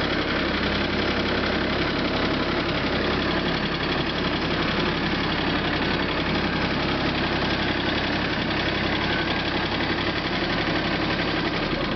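Mahindra Max 24 tractor's diesel engine running steadily.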